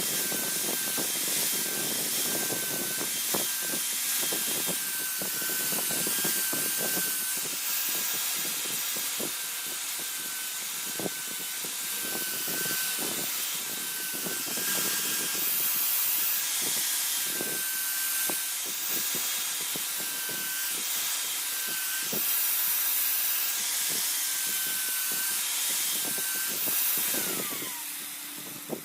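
Electric grinder grinding steel: a steady hiss with a high motor whine. The motor is switched off near the end and its pitch falls as it spins down.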